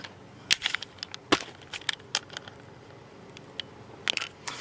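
Scattered light clicks and knocks of a SEBO X4 upright vacuum cleaner being handled and set in position on a carpet, with its motor still off.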